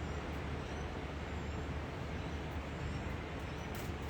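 Steady outdoor background noise with a constant low hum, like distant traffic. No bird calls or voices stand out.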